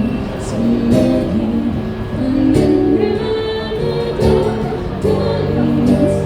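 Live pop song played by a band: a singer's voice carrying the melody over sustained instrumental backing.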